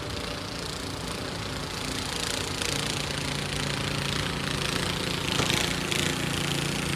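An engine running steadily, with a low hum that sets in about three seconds in.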